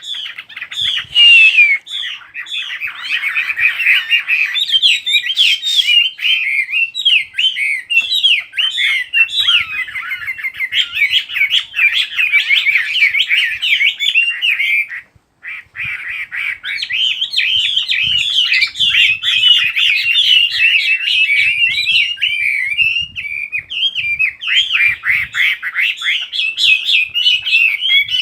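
Chinese hwamei singing a loud, rapid, varied song of chirps and whistled glides, with a brief pause about halfway through.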